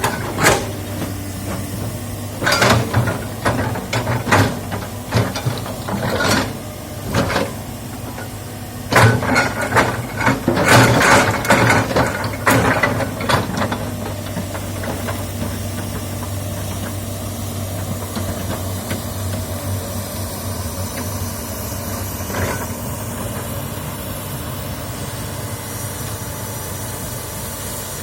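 Komatsu excavator's diesel engine running steadily under work, with a series of sharp knocks and cracks through the first half, thickest around ten to thirteen seconds in, then the engine running on alone.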